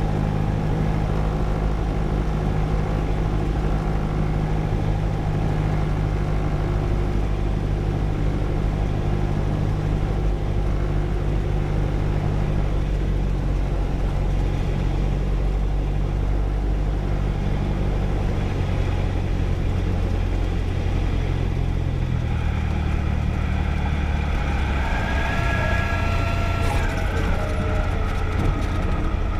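Light aircraft's piston engine running steadily at reduced power on approach, heard through the cockpit audio. About 22 seconds in the engine note drops lower, and a few brief high tones sound over it near the end.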